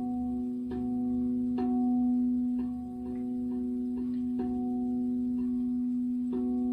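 Singing bowl ringing with a steady deep tone and several higher overtones. It is struck lightly every half second to a second, and each strike renews the ring.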